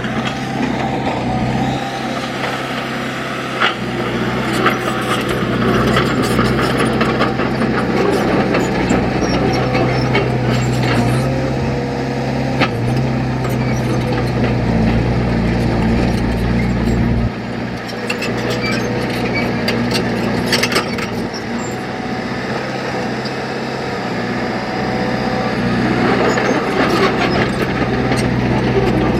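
Diesel engine of heavy earth-moving machinery running steadily under work, with scattered clanks and knocks; the deepest part of the engine drone drops away about halfway through.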